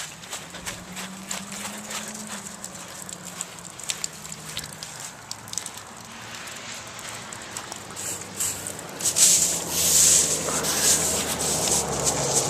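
Footsteps crunching on hail-covered ground as a series of short, irregular crunches, with a louder rushing hiss from about nine seconds in.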